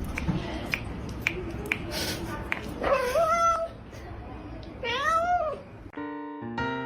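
A cat meows twice, about two seconds apart. The second meow rises and falls. Before the meows there is background noise with a few sharp clicks.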